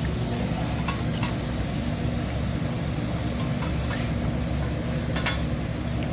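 Food sizzling on a hibachi flat-top grill over a steady low hum, with a few sharp clicks scattered through it.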